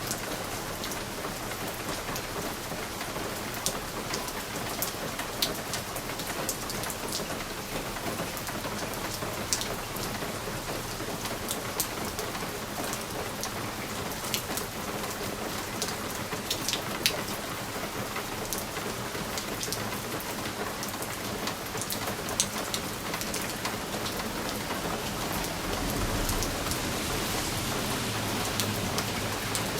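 Steady rain falling on a window, with scattered sharp drops ticking on the glass. A low rumble swells near the end.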